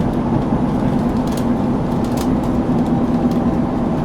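KiHa 261 series diesel railcar running, heard from inside the passenger car: a steady drone of engine and running noise with an even hum.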